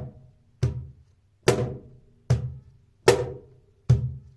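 Cajon struck by hand on its front playing face: five even strokes about 0.8 s apart, alternating the high sound and the medium sound, which is like the high but weaker.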